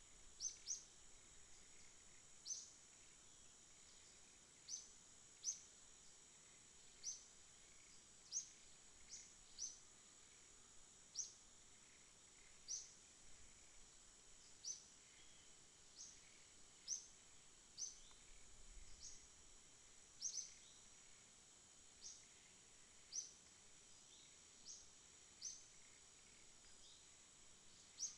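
Night insect chorus: a faint, steady, high-pitched drone, with short, sharp, high chirps repeating irregularly about every one to two seconds.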